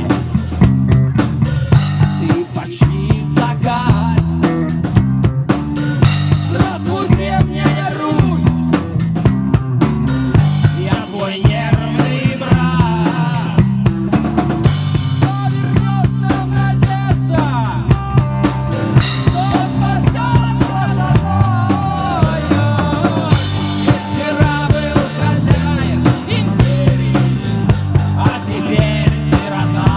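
Live rock band playing an instrumental passage: a drum kit keeps a steady beat under bass and a lead line whose notes bend and glide.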